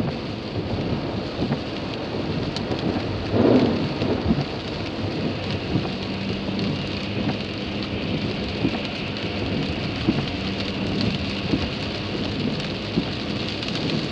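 Heavy rain beating on a moving car, heard from inside: a dense, steady patter of drops, with a louder rush about three and a half seconds in and a low steady hum joining about six seconds in.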